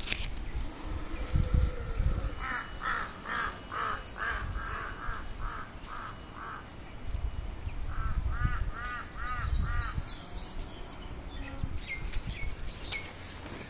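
Birds calling: a run of about nine evenly spaced calls, about three a second, then a shorter run of about seven similar calls with a quick series of high chirps from another bird over them. A low rumble on the microphone runs underneath.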